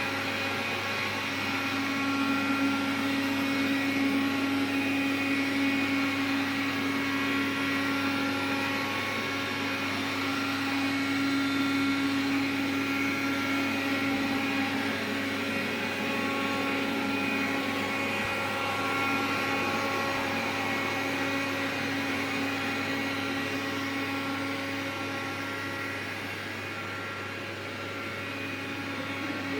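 Xiaomi vacuum cleaner running with a steady hum and whine, its loudness rising and falling slightly. It carries an extraneous noise that the owner suspects is a fault.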